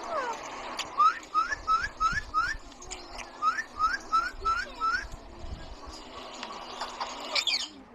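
A parrot whistling two runs of about five short rising notes, three or four a second, then a brief burst of higher, falling notes near the end.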